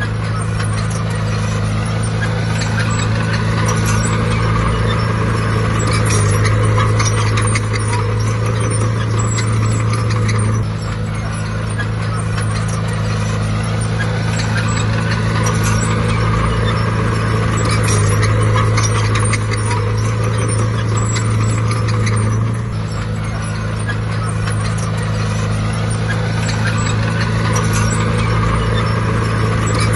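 Heavy diesel engine of earthmoving machinery running steadily under work. Its note drops and picks up again twice, about a third and two-thirds of the way through, as the load changes.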